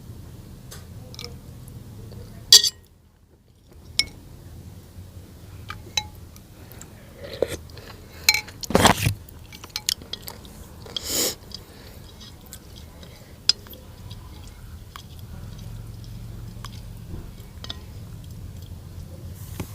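Cutlery clinking against a bowl and glassware during a meal, in scattered short clicks, with some chewing between them.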